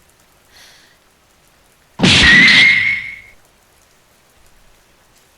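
Faint steady rain, broken about two seconds in by a sudden loud crash that carries a high ringing tone and dies away over about a second.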